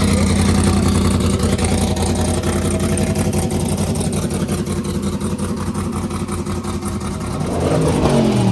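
Car engine running steadily with a low hum; near the end its pitch sweeps down.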